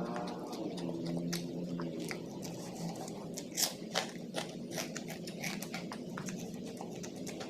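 A person eating with their mouth close to the microphone: chewing and biting with wet clicking mouth noises, and a few louder crunches a little past halfway.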